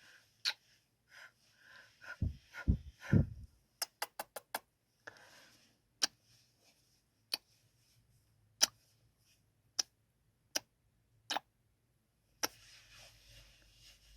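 Close-miked ASMR kissing sounds: sharp lip smacks, a quick run of four about four seconds in, then single kisses roughly once a second. Soft breaths come between the kisses, and a few low thumps come two to three seconds in.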